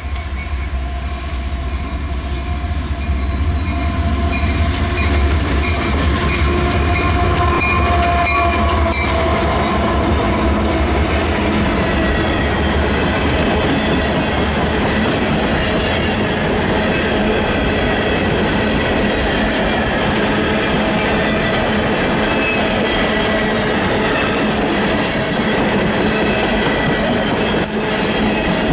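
A train rolling past with its wheels squealing against the rails in several steady high tones. A deep locomotive rumble is heard for about the first eight seconds.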